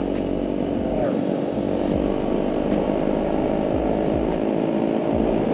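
KTM 390 Duke's single-cylinder engine running at a steady speed while riding, with the engine note holding even. Rough low wind rumble on the action-camera microphone sits under it.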